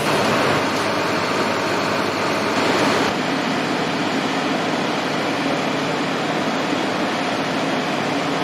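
A vehicle engine running steadily, a constant hum with faint steady tones over a haze of noise. It is a little louder for the first three seconds.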